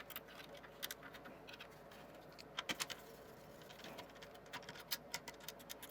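Faint, scattered light clicks and taps of small plastic cable connectors being unplugged and handled inside an opened TiVo Roamio, with a cluster of clicks nearly three seconds in and another near the end.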